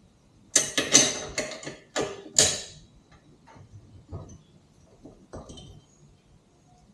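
Hand tools clinking and clanking against metal while the swing arm extension bolts are tightened: a quick run of about seven sharp metallic knocks in the first three seconds, then a few faint scattered ticks.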